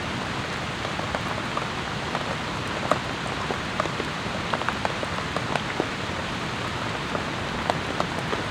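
Steady rain falling, with individual heavy drops ticking sharply on and off throughout.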